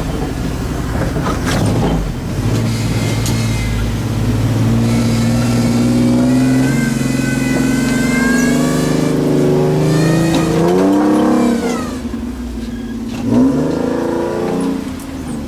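Off-road 4x4 truck engine revving: the pitch climbs and holds for several seconds, wavers and drops off about eleven seconds in, then a short rev comes near the end.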